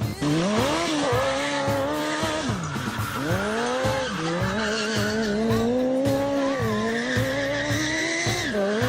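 Suzuki Hayabusa inline-four motorcycle engine in a go-kart, being driven hard. It revs up and down several times in quick succession, then holds a fairly steady high rev before dropping off near the end.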